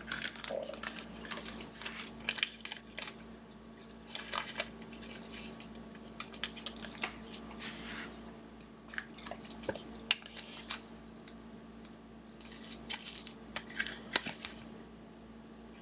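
Trading cards and card packaging being handled up close: irregular rustles, light taps and plastic clicks, in quick clusters with short pauses.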